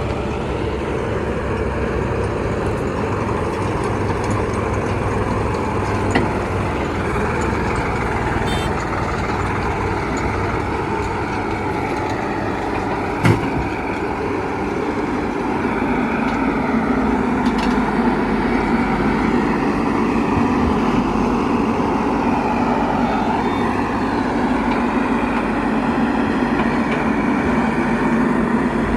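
Heavy diesel earth-moving machinery running steadily, its pitch rising and falling in the middle as the engine is worked harder and eased off. A single sharp knock comes about 13 seconds in.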